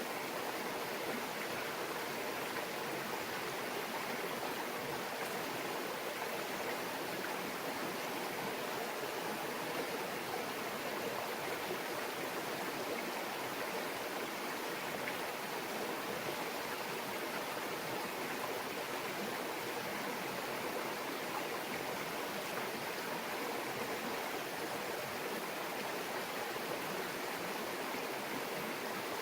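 Shallow stream babbling steadily over stones.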